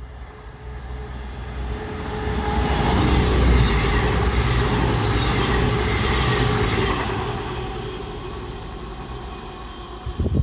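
A Voyager diesel multiple unit passing through the station without stopping. Its engine hum and wheel-on-rail noise build up, are loudest in the middle, then fade away as it goes by.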